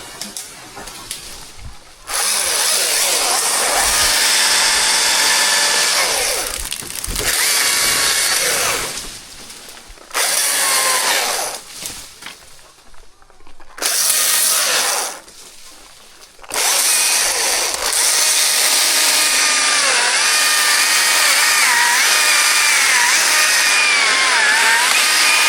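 Chainsaw cutting wood in bursts: several short cuts with pauses between, then one long cut through the last third, the engine pitch wavering and dipping as the chain bites.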